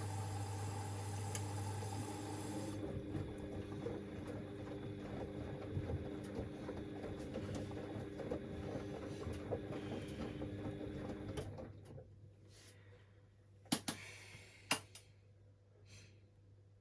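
Washing machine running with a steady motor hum and tumbling rumble that stops about eleven seconds in, followed by a couple of short knocks.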